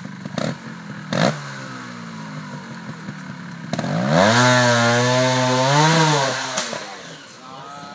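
Trials motorcycle engine ticking over, with a quick throttle blip about a second in. About four seconds in it revs hard for about two seconds as the bike accelerates away, the pitch rising, then eases off.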